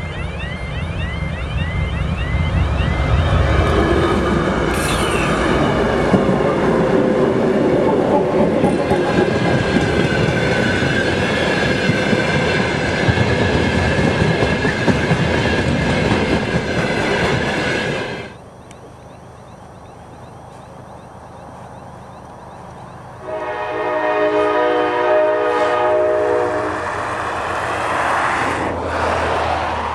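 GE TE33A diesel locomotive sounding its horn as it comes up and passes, its pitch dropping as it goes by, then a long train of tank wagons rolling past with clickety-clack and a steady high wheel squeal. After a sudden cut to quieter ground, the horn sounds again for about four seconds as the locomotive approaches.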